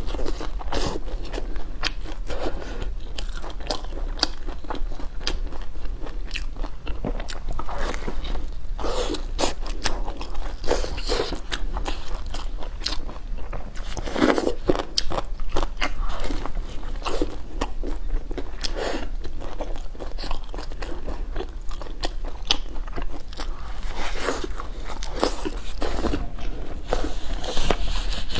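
A person biting and chewing green onion pancake, with many small, irregular clicks all through.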